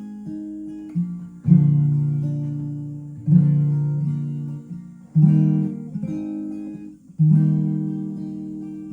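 Taylor 814ce acoustic guitar playing a slow instrumental intro: a strummed chord about every two seconds, each left to ring and fade before the next.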